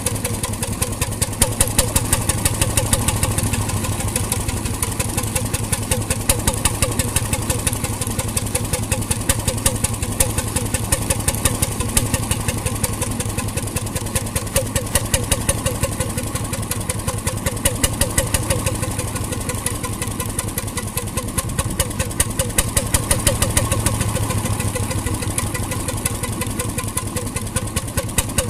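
RSM 3½ HP hotbulb marine engine running steadily with a rapid, even knocking beat that swells and eases every second or two.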